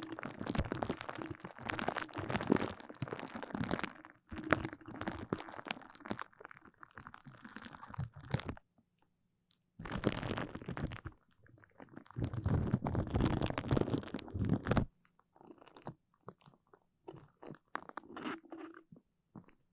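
Close-up ASMR sticky sounds: a tacky surface pressed and pulled apart right at the microphone, making dense crackly, crunchy clicks in bursts of a few seconds with short pauses between.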